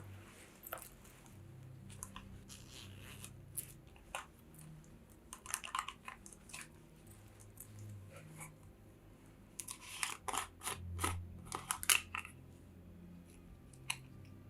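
Steel circular knitting needles clicking against each other with wool yarn rustling as stitches are worked; the clicks come in irregular clusters, busiest about five seconds and ten to twelve seconds in.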